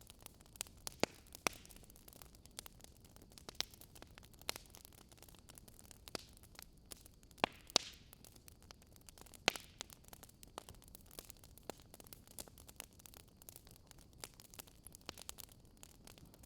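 Wood fire crackling: a steady low hiss with irregular sharp pops and snaps, a few louder ones standing out.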